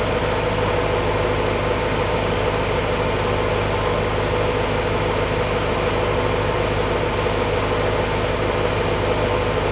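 1953 Willys CJ-3A's four-cylinder L-head (flathead) engine idling steadily, nearly warmed up to operating temperature after a cold start, just before the thermostat opens.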